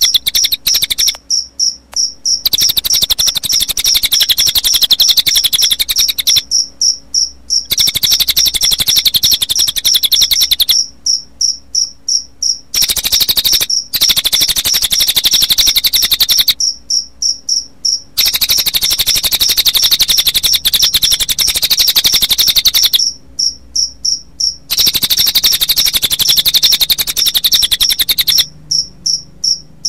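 Recorded cililin bird song layered with cricket chirping: a fast, high-pitched pulsing trill that runs in long stretches, broken by short pauses every few seconds.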